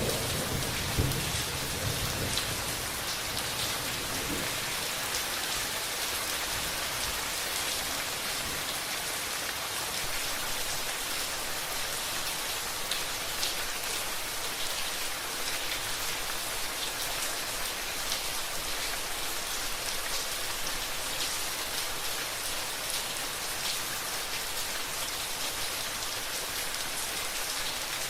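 Steady rain falling on a surface, many individual drops pattering. A low rumble of thunder fades out in the first few seconds.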